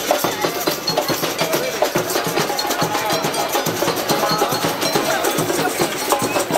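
Fireworks crackling: a dense, continuous run of rapid small pops and clicks.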